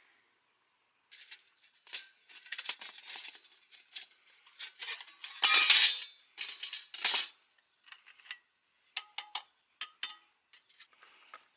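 Metal camping gear clinking and rattling as it is handled, in irregular bursts, loudest about five to six seconds in, with a few short ringing clinks about nine seconds in.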